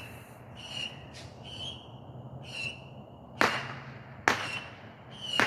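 Distant New Year fireworks: three sharp bangs in the second half, with short high-pitched whistling chirps repeating about once a second throughout.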